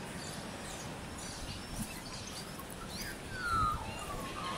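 Birds calling over steady outdoor background noise: scattered short high chirps, then a few downward-slurred whistled calls about three seconds in, the loudest sound in the stretch.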